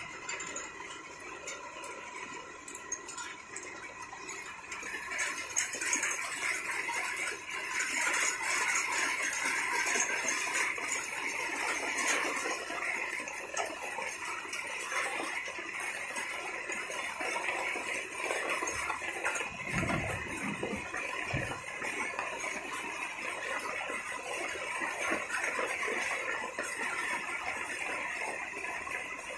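Steady rain falling and pattering, a dense, even crackle of drops on the wet rooftop and a tin shed roof.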